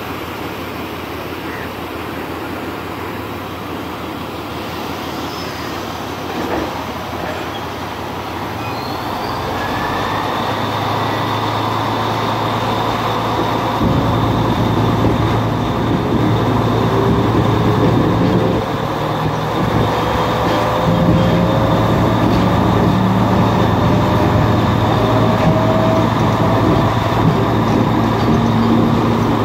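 Passenger train running on the rails, heard from on board. From about ten seconds in it grows louder, a steady low hum sets in, and a whine climbs slowly in pitch.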